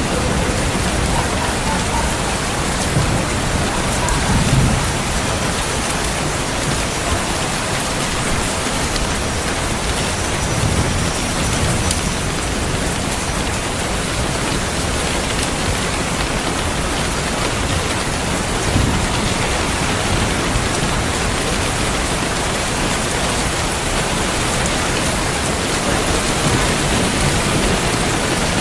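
Steady heavy rain falling, with a few low rumbles of distant thunder, the strongest about four seconds in.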